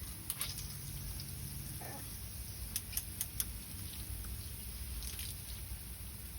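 Water from a shower pattering and dripping, with a few sharp drip-like ticks, four of them close together about three seconds in, over a low steady rumble.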